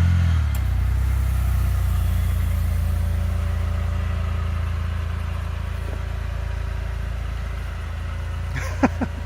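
Car engine running at idle, a steady low hum that slowly gets quieter.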